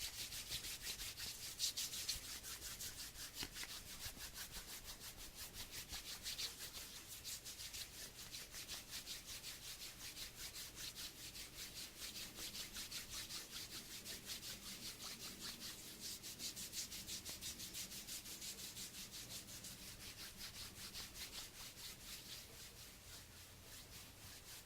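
Hands rubbing together in a steady back-and-forth rhythm, about three strokes a second, getting quieter near the end.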